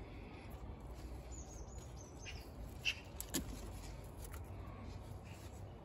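Small birds chirping faintly: a quick run of short, high chirps. Two short sharp clicks come about three seconds in, over a steady low rumble.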